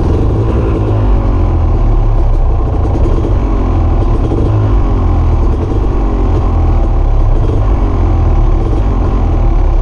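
Off-road vehicle engine running close by, loud and steady, its revs rising and falling.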